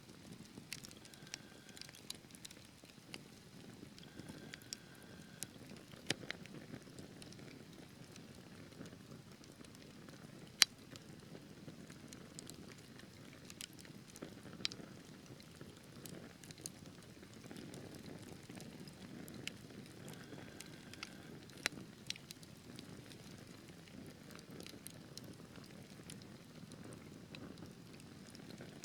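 Wood fire burning in a fireplace: a low steady rumble of flames with scattered crackles and sharp pops from the burning logs, the loudest pop about ten seconds in.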